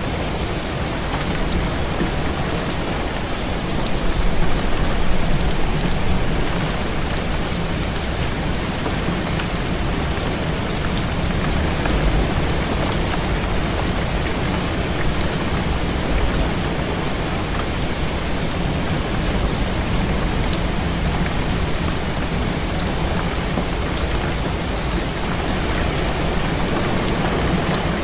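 Heavy rain beating on a window, a steady dense hiss, with a louder swell about four to six seconds in.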